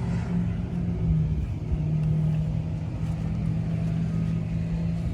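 A vehicle engine running steadily, a low even hum that shifts slightly in pitch.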